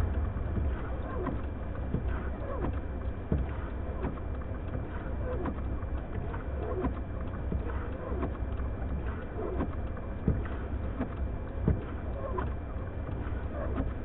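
Blizzard wind rumbling steadily, with many short whistling gusts that fall slightly in pitch.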